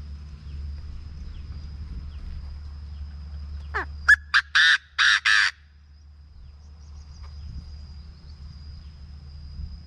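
Chinese francolin giving one loud call near the middle: a short sliding note, then a rapid run of about five harsh notes, each longer than the one before, lasting about a second and a half. A thin, steady high whine and a low rumble run underneath.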